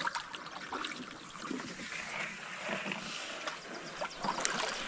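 Canoe being paddled along a narrow creek: paddle dips and drips of water, with scattered light knocks and splashes.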